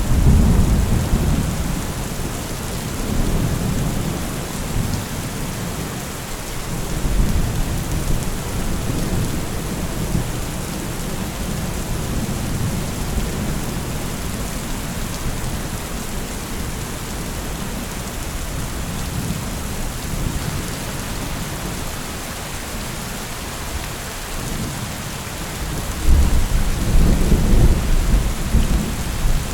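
Steady rain falling, with rolls of thunder: a deep rumble at the start, another around seven seconds in, and a louder one near the end.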